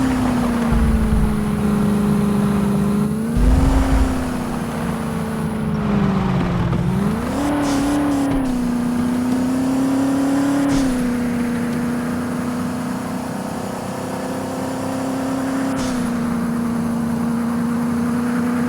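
Car running on the road, heard from inside the cabin: a steady engine drone whose pitch rises and falls as the revs change, with a few low thumps near the start and about three and a half seconds in.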